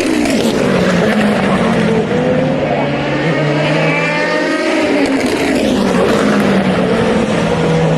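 Racing car engines at the Le Mans circuit, several engine notes overlapping at a steady high level, their pitch falling and then rising again as the cars slow and pick up speed.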